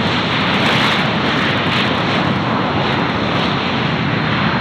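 Airliner jet engine noise: a loud, steady rush with no breaks.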